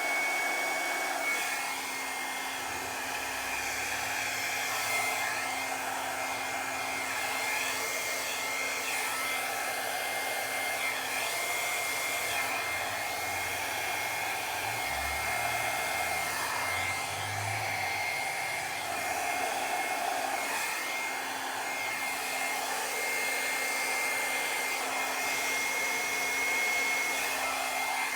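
Handheld hair dryer running steadily, blowing air onto wet acrylic pour paint, a constant rush of air with a steady motor whine.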